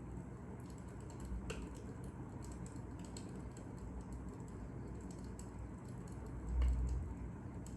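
Fire crackling, with irregular sharp pops over a steady low rumble and a soft thump about six and a half seconds in.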